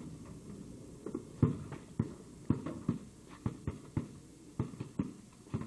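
A basketball bouncing, a dozen or so irregular thumps, the loudest about one and a half seconds in.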